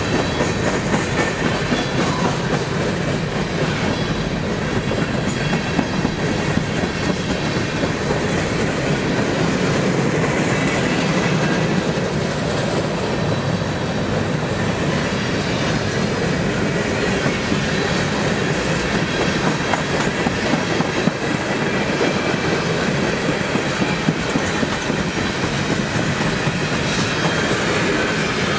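Train cars rolling steadily past on the railway, wheels clattering over the rails.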